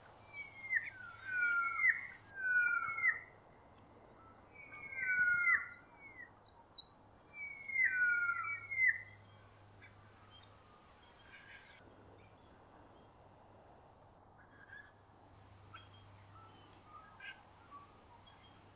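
Birds calling: clusters of two or three short whistled notes that slide downward, repeated in several groups over the first nine seconds or so, then only faint scattered chirps.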